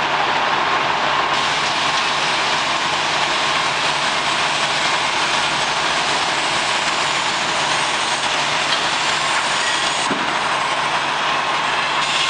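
International Workstar garbage truck running steadily, a loud even mechanical noise with a faint steady whine over it.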